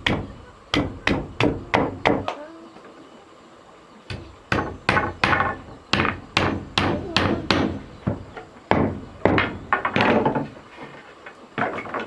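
Hammer striking wood in steady repeated blows, about three a second. The blows come in a short run, stop for about two seconds, then resume in a longer run.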